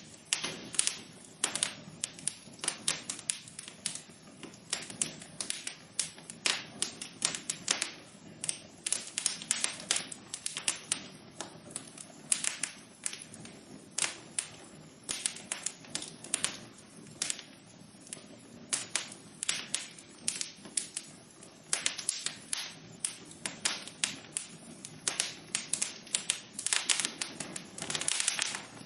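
Fire crackling in a fireplace: dense, irregular sharp snaps and pops, several a second, over a faint hiss.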